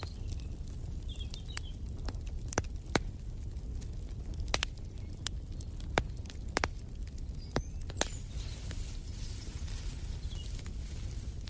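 Wood fire crackling: sharp pops and snaps at irregular intervals over a low steady rumble. Faint, brief bird chirps are heard a couple of times.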